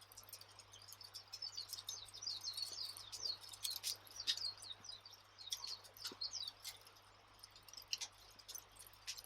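Campfire crackling with scattered sharp pops and snaps, mixed with small birds twittering, busiest in the first half.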